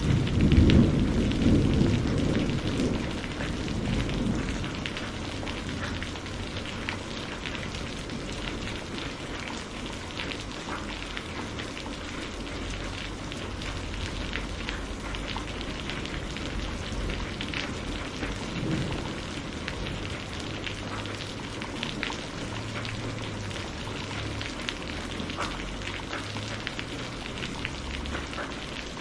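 Steady rain falling with scattered drop ticks, and a roll of thunder in the first few seconds that fades away; a fainter rumble of thunder comes again a little past halfway.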